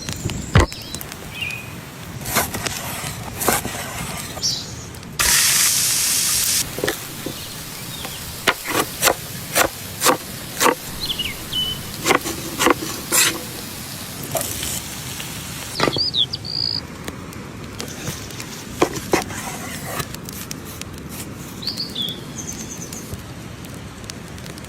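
Outdoor food-preparation sounds: a run of sharp knocks and taps, and a loud hiss lasting about a second and a half some five seconds in. Birds chirp now and then in the background.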